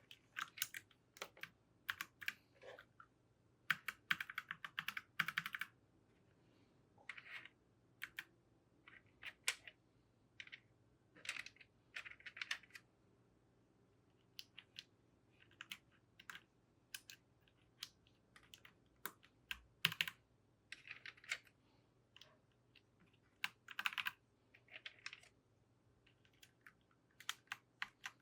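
Mechanical keyboard keys clacking in short, irregular clusters with pauses between them.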